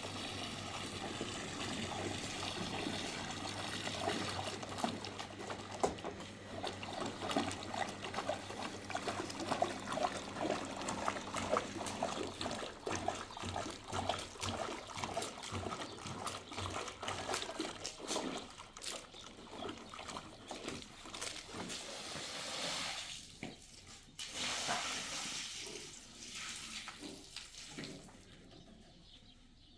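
Water trickling and splashing, with many small splashes and clicks. It thins out and fades over the last few seconds.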